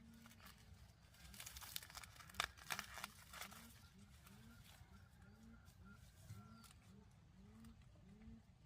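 Faint, regular series of short low animal calls, about two a second. A few sharp knocks fall in the first half.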